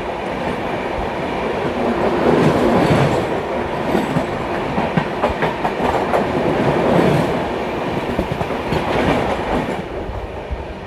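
Express passenger train running at speed, heard from on board a sleeper coach: a steady rumble of wheels on track with rapid clacking over rail joints.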